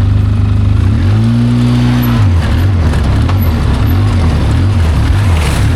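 ATV engine running under load in four-wheel drive. The revs rise about a second in, then go up and down unevenly.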